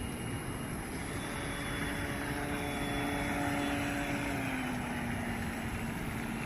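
A motor hum over a steady outdoor hiss. The hum grows louder, then drops slightly in pitch about four to five seconds in, as a motor passing by would.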